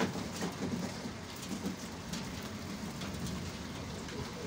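Rain falling steadily and splashing on wet concrete, a continuous patter with small scattered splashes.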